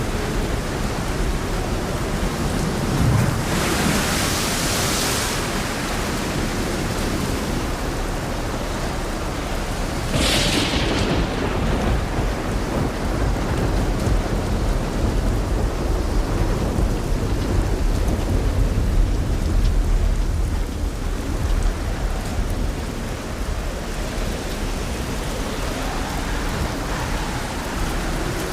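Steady rain falling, an even hiss, with two brief louder whooshes about four and ten seconds in and a deep low rumble underneath through the middle.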